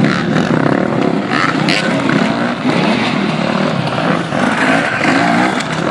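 Motocross motorcycle engines revving, their pitch rising and falling again and again.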